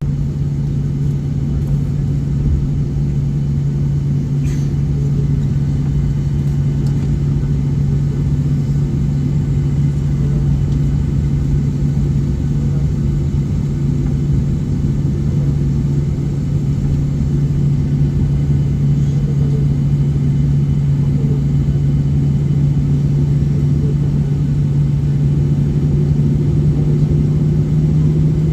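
Cabin noise inside a Boeing 737-800 on the ground: a steady low rumble with a constant droning hum.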